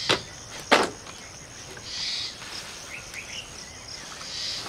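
Outdoor ambience: a high insect-like buzz that swells twice and a few brief bird chirps, with two sharp clicks in the first second.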